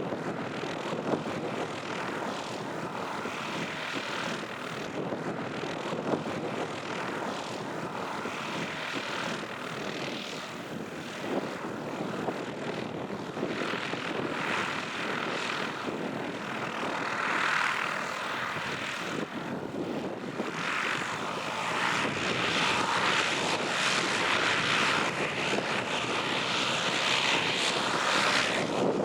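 Piper Cherokee Warrior II's four-cylinder Lycoming engine and propeller running steadily, growing louder about two-thirds of the way through.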